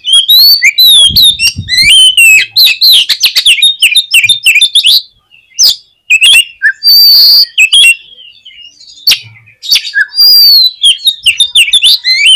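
Oriental magpie-robin (kacer) singing loudly and fast: a dense run of sharp whistles, rising and falling notes and clicks. The song breaks off briefly about five seconds in, then starts again.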